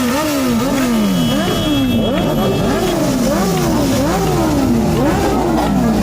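Several sport motorcycle engines revving, their pitch repeatedly climbing and falling in overlapping swells, as a group of superbikes pulls away.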